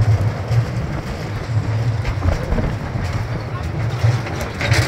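Small park ride train running, a steady low rumble heard from one of its open passenger cars.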